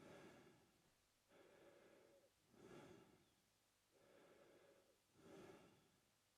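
A man breathing slowly and evenly through his mouth, faint and close. Each cycle pairs a softer breath with a stronger one and repeats about every two and a half seconds.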